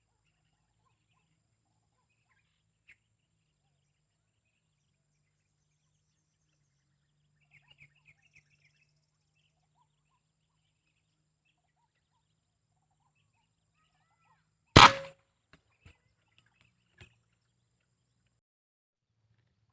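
A few faint bird chirps, then a single sharp air-rifle shot about fifteen seconds in, followed by a few faint clicks.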